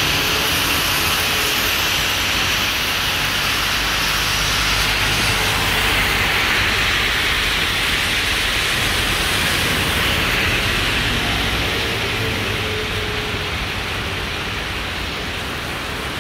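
Heavy tropical rain falling on the road as a steady hiss, with a car's tyres swishing on the wet road in the first few seconds. The hiss eases slightly near the end.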